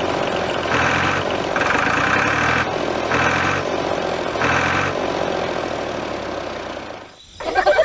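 A steady engine-like mechanical drone with a louder pulse about once a second, fading out and stopping near the end.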